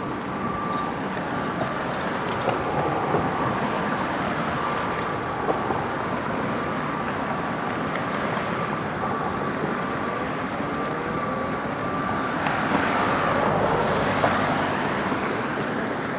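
McNeilus front-loader garbage truck running, with a steady high whine over the engine noise and a few sharp clanks. The truck grows louder for a couple of seconds near the end.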